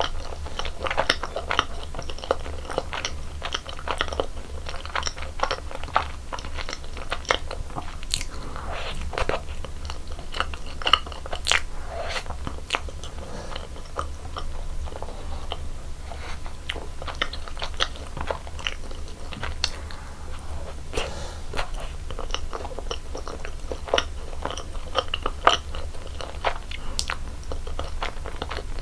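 Close-miked biting and chewing of cream-filled donuts: soft crunches and wet mouth clicks, many irregular strokes.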